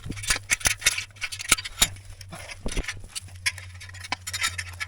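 Irregular clicks and light knocks, a few of them sharper, over a low steady hum.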